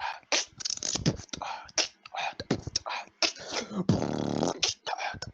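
Beatboxing: a fast run of mouth-made drum sounds, with low kick-like thumps, hissing snare-like hits and clicks. A held buzzing bass note comes about four seconds in.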